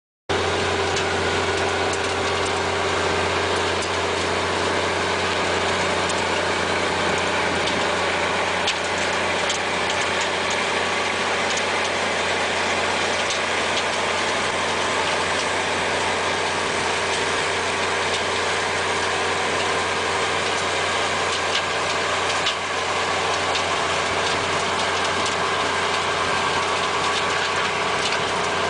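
A machine's engine running steadily with a constant hum and a few faint clicks, starting abruptly.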